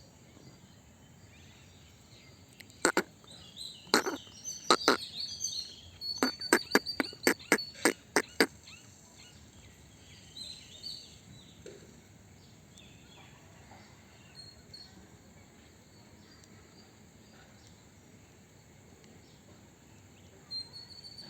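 A run of about a dozen sharp, loud taps, clustered between about three and eight seconds in, among scattered short high chirps and a steady high hiss.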